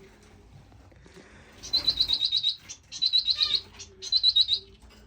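Small finches in an aviary chirping: three loud bursts of rapid, evenly repeated high notes, about ten a second, starting about one and a half seconds in. Faint low dove cooing comes and goes underneath.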